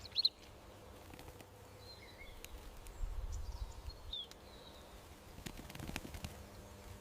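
Garden birds chirping now and then in short, high calls over a faint outdoor hiss, with a brief low rumble about three seconds in.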